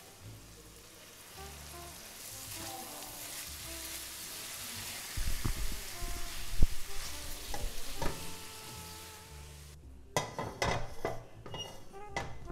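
Chicken pieces with onion and peppers sizzling as they fry in a wok, stirred with a silicone spatula that scrapes and knocks against the pan from about five seconds in. The sizzling cuts off near the end, followed by a few quick clicks and knocks. Soft background music underneath.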